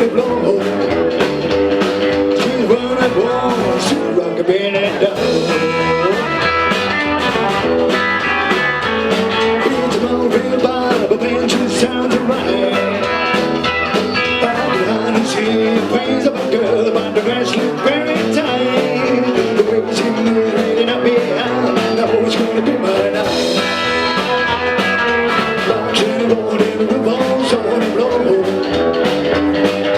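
Rockabilly band music with guitar and singing, with a steady beat.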